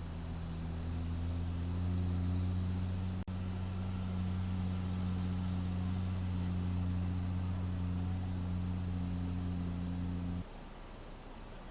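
Vehicle engine running steadily with a low hum, stopping abruptly about ten and a half seconds in.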